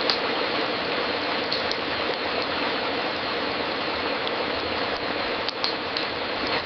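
Wood fire crackling in a fireplace over a steady hiss, with a few sharper pops.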